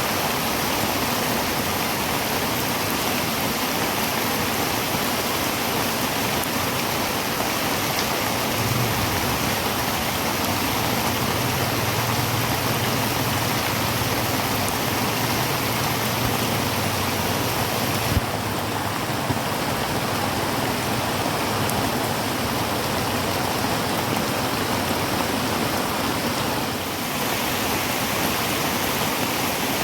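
Heavy rain falling on a tin roof, a dense steady hiss. A low steady rumble sits underneath for about ten seconds in the first half, and a single sharp tick comes a little past the middle.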